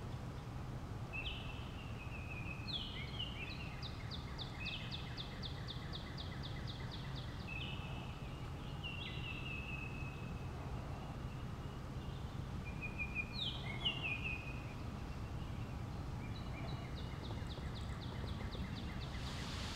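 Birds calling: short chirps that slide downward in pitch, along with several fast, evenly spaced trills that each last a couple of seconds, over a steady low background rumble.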